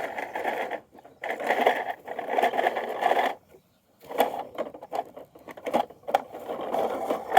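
Small motor of a toy garbage truck whirring in several start-stop runs, with plastic clicks and rattles between the runs.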